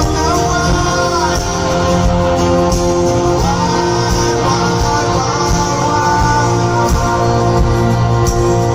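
A rock band playing live: guitars and a sung melody over a sustained backing, heard as a loud, unbroken stretch of music.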